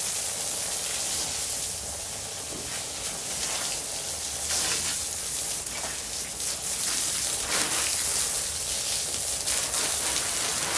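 Garden hose spraying a jet of water onto a deck: a steady hiss that swells and eases a little as the spray moves across the boards.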